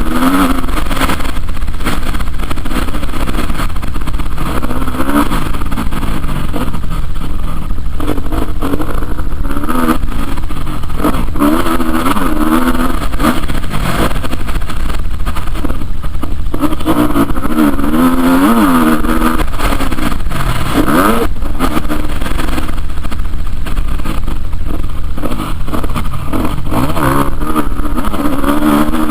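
Motocross motorcycle engine running loud, its pitch rising and falling again and again as it revs up and backs off.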